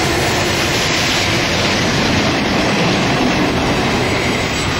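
Container freight train's wagons rolling past close by: a loud, steady rumble and rattle of steel wheels on the rails.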